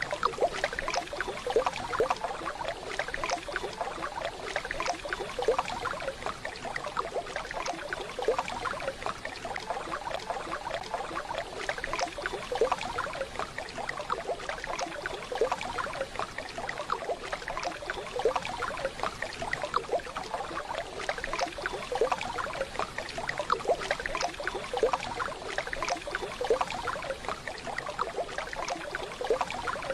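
Waterfall water splashing and trickling steadily, a dense even rush of small splashes.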